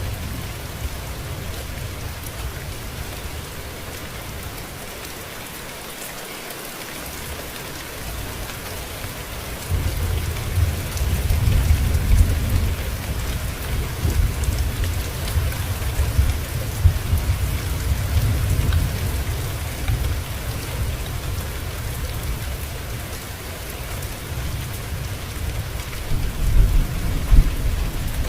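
Steady rain falling, with low rolling thunder rumbling beneath it. The rumble dies away for a few seconds, then builds again about ten seconds in and rumbles on, heaviest near the end.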